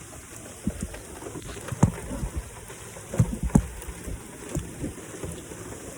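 Steady rain falling, with a series of short, dull low thumps and knocks scattered through it.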